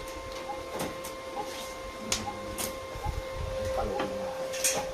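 A steady machine hum, with scattered light clicks and knocks.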